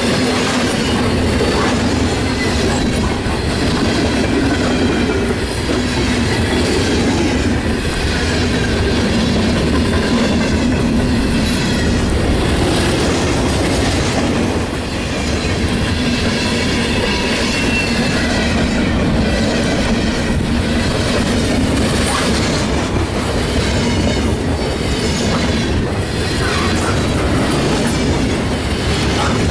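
A train rolling past steadily, its railcar wheels clicking over the rail joints with a faint, wavering squeal of wheels on rail.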